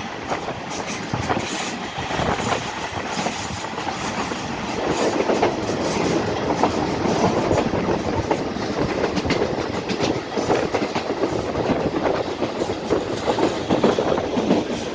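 Pakistan Railways 34DN Subak Kharam express train running, with steel wheels clattering over the rail joints and a steady rumble and rattle of the carriages.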